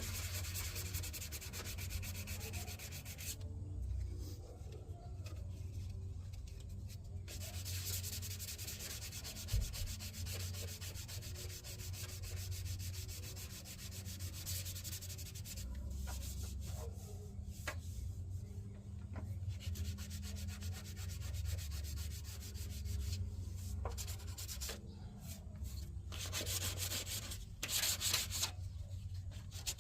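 Sanding on the bodywork of a car's engine bay: scratchy rubbing strokes that pause briefly a few times, over a steady low hum.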